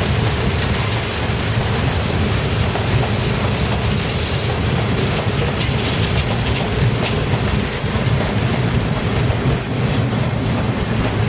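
Freight train of open hopper wagons rolling past, its steel wheels clacking over the rail joints in a steady heavy rumble, with a faint high wheel squeal now and then.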